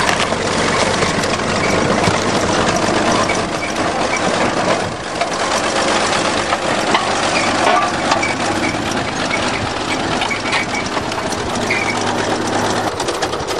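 Bulldozer's diesel engine running steadily, with scattered clanks and crunches from the machine and crushed wreckage.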